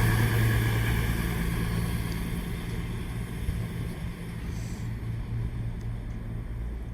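Class 221 Super Voyager diesel multiple unit running away on its underfloor diesel engines: a steady low engine drone over a wash of rolling noise, fading steadily as the train draws away.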